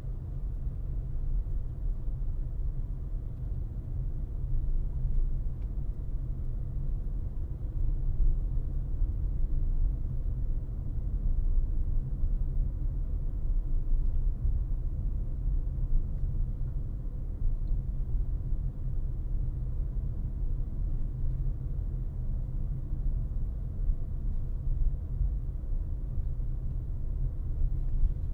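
Steady low rumble of a car driving, with road and tyre noise and the engine underneath, with no distinct events.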